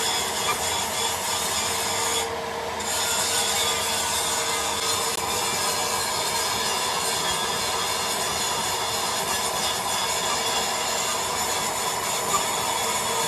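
Steady machining noise from factory machinery with several steady whining tones, a grinding or cutting sound that dips briefly a little over two seconds in.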